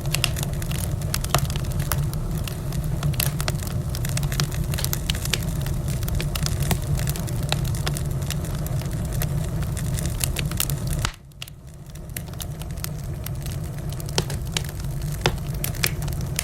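Wood fire in a fireplace crackling, with frequent sharp pops over a steady low rumble. About two-thirds of the way in, the rumble suddenly drops away and then slowly builds back while the crackling goes on.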